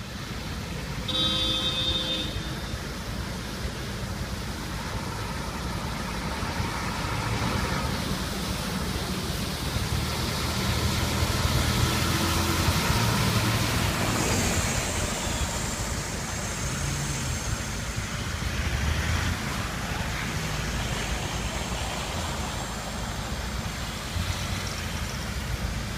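Road traffic on a rain-flooded street: car and truck engines running and tyre noise through the water, swelling as a vehicle passes in the middle. A brief high squeal sounds near the start.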